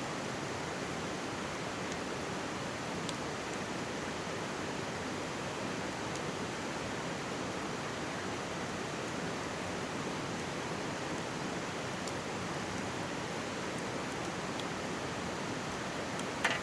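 Mountain stream rushing steadily right beside the microphone, with a few faint crackles from a wood campfire and a louder pop near the end.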